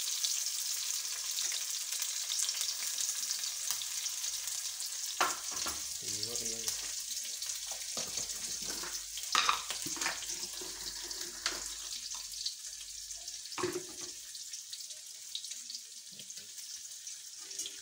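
Shallots, garlic and green chillies sizzling in hot oil in a kadai, a steady hiss that eases a little toward the end. A few sharp knocks of the spoon on the pan as the mixture is added and stirred.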